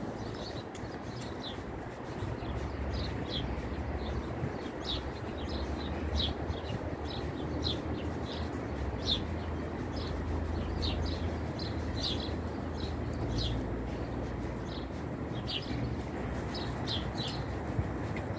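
A small songbird chirping over and over, short high chirps coming more than once a second, over a steady low background rumble.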